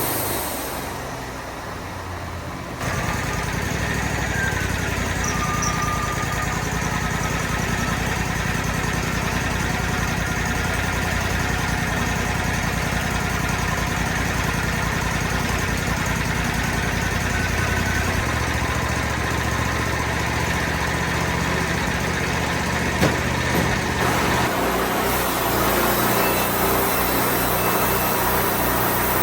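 Engine running steadily, quieter at first and then stepping up abruptly about three seconds in, its low note shifting twice later on.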